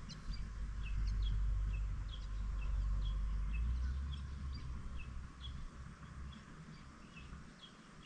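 Short high bird chirps repeating a few times a second, with a low rumble underneath during the first few seconds.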